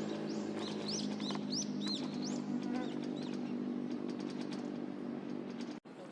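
A small songbird giving a quick run of short, high, arched notes for the first couple of seconds, then fainter high ticks. A steady low hum runs underneath.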